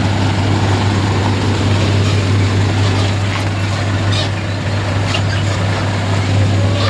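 Engines of vehicles crawling in heavy, slow traffic, making a steady low hum, with a few faint ticks partway through.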